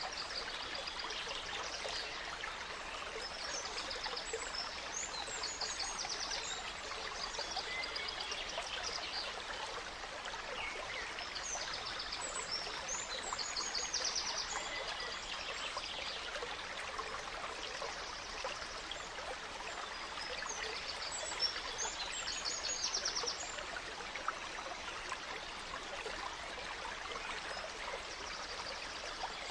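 Gentle stream flowing steadily, with songbirds singing over it in short phrases of rapid trills and chirps that come back every few seconds.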